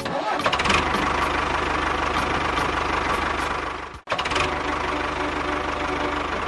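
A motor running steadily with a constant low hum and a rattly, noisy top. It cuts out abruptly about four seconds in and starts again straight away.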